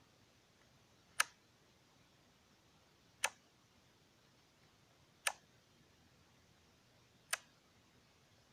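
Four short, sharp clicks, evenly spaced about two seconds apart.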